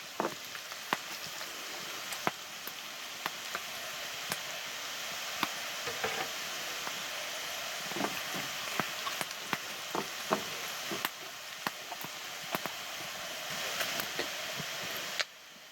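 Chopped garlic sizzling in the sausage fat of a frying pan, browning, with frequent sharp little pops. The sizzle drops suddenly near the end.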